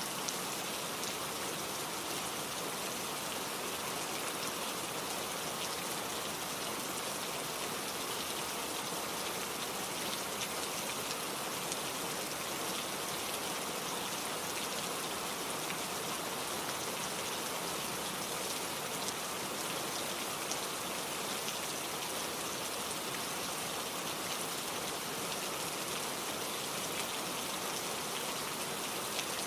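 Steady rain falling, an even patter of drops with no changes or thunder claps.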